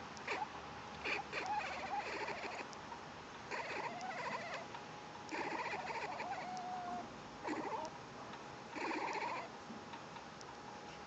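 Kitten making odd vocal noises: a string of short bursts, some with a brief tone in them, with pauses between.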